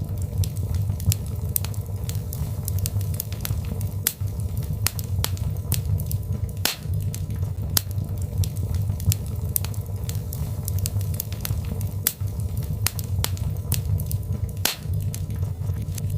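Birchwood fire crackling: irregular sharp pops and snaps, a few louder ones, over a steady low rumble of the flames.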